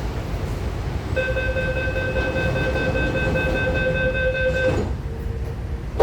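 MTR train's door-closing warning tone sounds for about three and a half seconds, starting a second in, over the low rumble of the train; a sharp knock follows at the very end as the doors shut.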